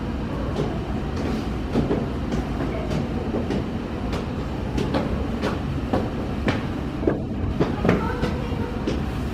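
Steady low rumble of strong wind on the microphone, mixed with a landing jet airliner's engines, with irregular sharp knocks and clicks scattered through it.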